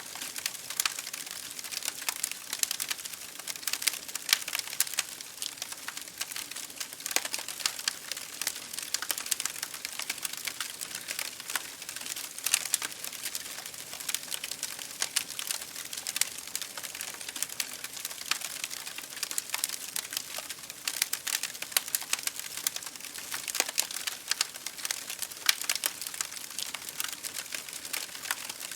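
Wood fire crackling in a fireplace, a dense, continuous run of small snaps and pops, over an even hiss of rain pattering on a window pane.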